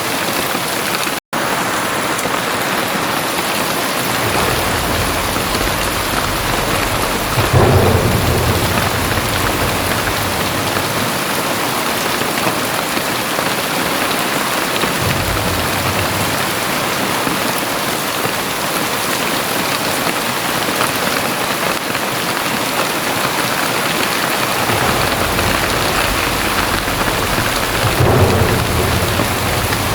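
Very heavy rain pouring steadily, with low rolls of thunder swelling in and out, loudest about seven seconds in and again near the end. The sound cuts out for a split second about a second in.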